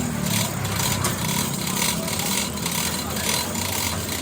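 Workshop machinery running with a steady low hum, and a scraping hiss that repeats about twice a second.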